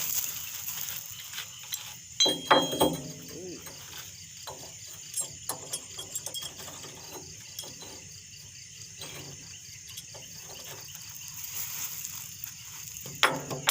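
Night insects, crickets, chirping steadily in a fast, even pulse. A few sharp metallic clinks and knocks come about two seconds in, with more clatter near the end.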